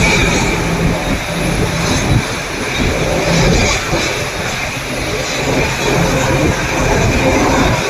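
Boeing 787-8 jet engines running at low power while taxiing, a steady rushing drone with a low hum and a high fan whine.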